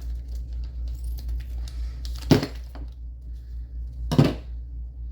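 Two sharp metallic clinks, about two seconds apart, as silver coins are set down onto a stack of silver, over a steady low hum.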